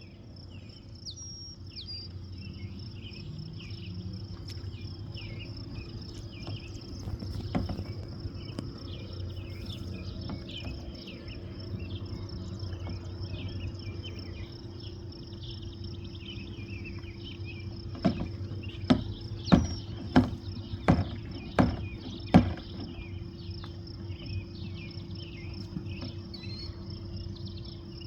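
Insects trilling steadily at a high pitch, with short bird-like chirps scattered through and a low steady hum underneath. About eighteen seconds in comes a run of about seven sharp knocks, each under a second apart.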